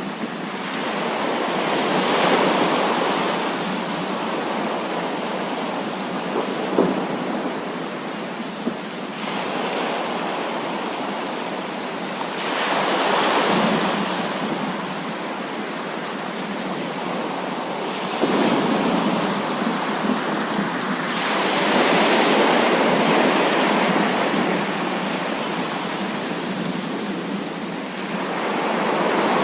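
Heavy rain falling in a thunderstorm, with rolls of thunder: the rush of noise swells and fades several times, and there is one sharp tap about seven seconds in.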